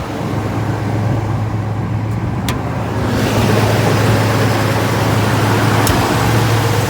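A 1983 Chevrolet Silverado's 305 V8 idling steadily with a low, even hum. About three seconds in, a louder rushing noise joins it.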